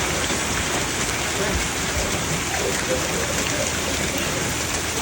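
Rain from a thunderstorm falling steadily: an even hiss of rain on surfaces.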